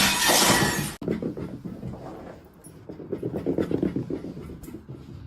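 A loud rushing noise for about the first second, cut off abruptly. Then a pet's quick rhythmic panting, several breaths a second.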